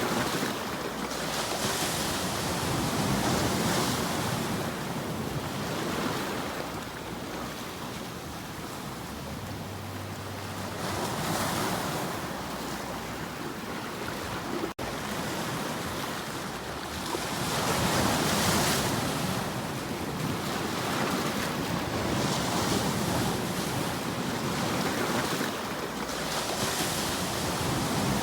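Ocean surf: waves washing in and drawing back in slow swells of rushing noise every few seconds, with a momentary break in the sound about halfway through.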